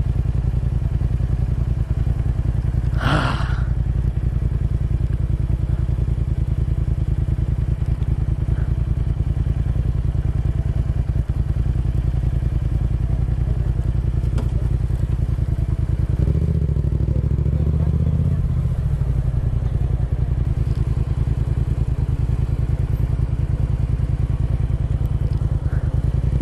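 Motorcycle engine running steadily while riding in traffic, rising and falling in pitch about two-thirds of the way through as it revs. A short, sharp noise stands out about three seconds in.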